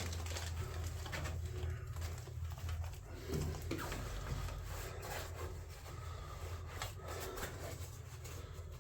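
Faint bird calls over a steady low hum, with scattered clicks and rustling.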